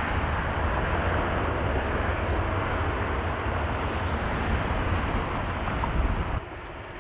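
Jet airliner engines running loud and steady, with a deep rumble under a rushing roar, mixed with wind buffeting the microphone; the sound drops away abruptly about six seconds in.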